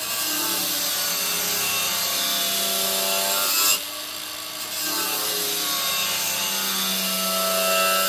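Angle grinder with a flap disc grinding steel: a steady motor whine over a harsh rasping hiss in two long passes, easing off briefly a little before the middle.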